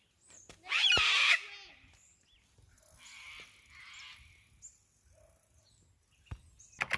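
A loud animal call about a second in, with a wavering, bending pitch, followed by fainter scratchy sounds a couple of seconds later.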